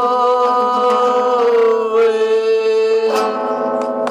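Music: a singer holds the song's long final note over guitar, the pitch shifting slightly near the middle and changing again about three seconds in.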